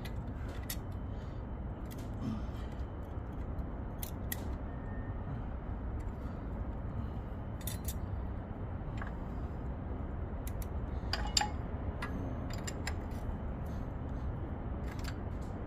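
Light metallic clicks and scrapes of hand tools on the valve train of a DD16 diesel: a feeler gauge worked under the intake rocker while the adjusting screw is turned to get a snug drag. The clicks are scattered, a dozen or so, over a steady low background rumble.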